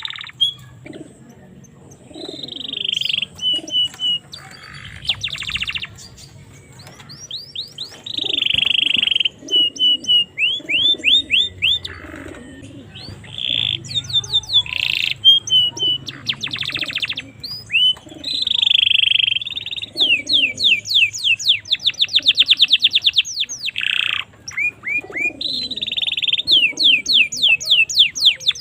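Domestic canary singing a long song. It runs in phrases of fast trills, rolls and rising chirps, with short pauses between them.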